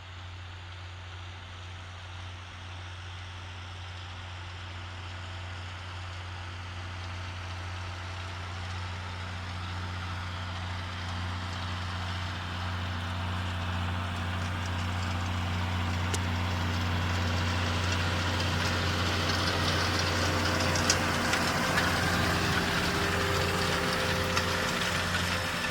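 John Deere 6920S tractor's six-cylinder diesel engine running steadily under load while pulling a seed drill, growing steadily louder over the whole stretch, with a few light mechanical ticks near the end.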